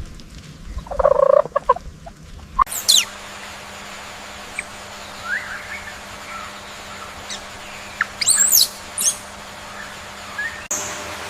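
A bird's loud, rapidly pulsing call lasting under a second, then a change to thin, high chirps and quick sweeping whistles from small birds, with a cluster of loud whistles near the end.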